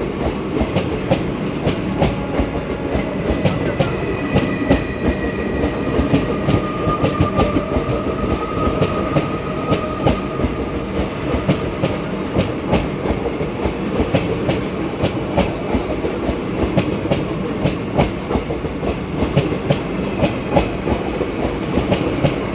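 Express passenger train running on the track, its wheels clicking over rail joints in a steady clickety-clack over a continuous rumble.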